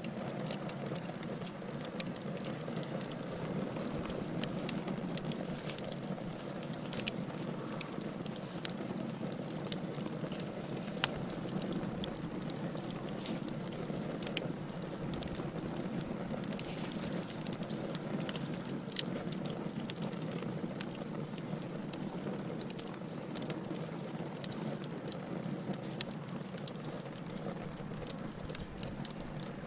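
Wood fire burning in a fireplace: a steady low rush of flames with frequent small, sharp crackles and snaps.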